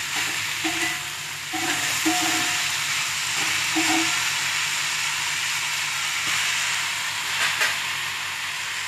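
Chopped banana flower, onion and garlic frying in hot oil in an iron kadai, a steady sizzle. A steel spatula stirs it, scraping the pan several times in the first four seconds.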